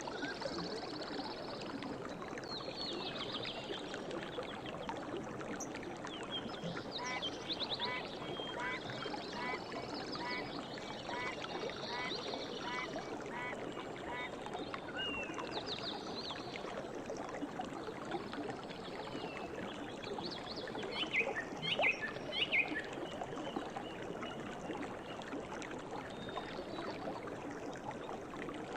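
Steady rush of flowing river water with birds chirping over it. Near the middle a call repeats evenly about twice a second for several seconds, and a brief burst of louder chirps comes about three-quarters of the way through.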